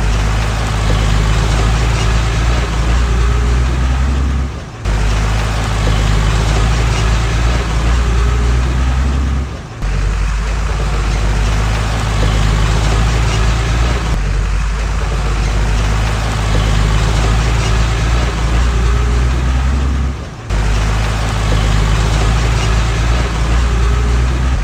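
Heavy earthmoving machine's engine running steadily with a low drone, dipping briefly three times where the footage cuts.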